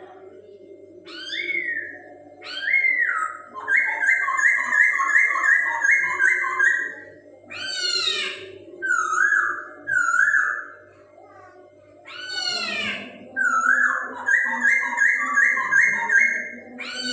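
Poksay hongkong, a laughingthrush, singing loud whistled phrases: sharp down-sweeping notes followed by quick runs of repeated notes, in several bursts with short pauses between, over a faint steady low hum.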